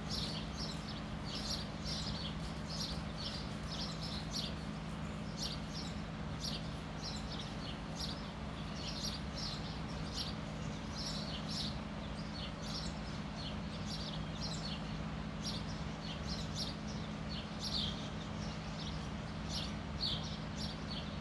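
Small birds chirping: many short, high chirps a few times a second, irregular and unbroken, over a steady low hum.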